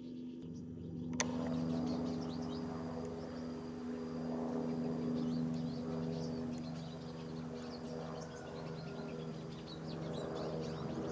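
Airbus H125 (AS350 B2) helicopter's single turboshaft engine and rotors running with a steady low drone, with small birds chirping over it. A sharp click sounds about a second in.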